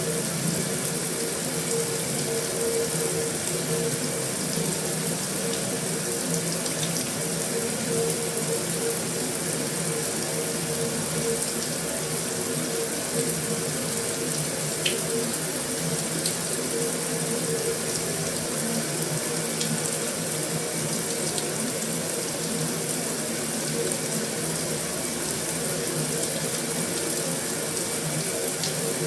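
Heavy rain falling on a metal roof, a steady, even hiss with a few faint ticks.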